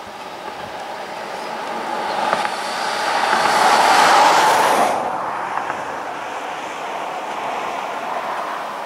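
BNSF freight train of hopper cars with diesel locomotives running past at a distance. The noise swells to its loudest about four seconds in, drops sharply about five seconds in, then stays steady.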